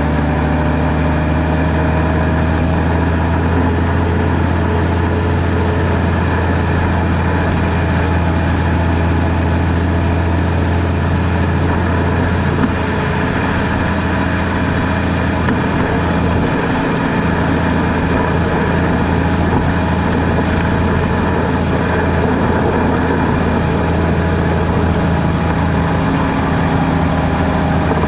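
Car engine and road noise while driving: a steady low drone with no let-up.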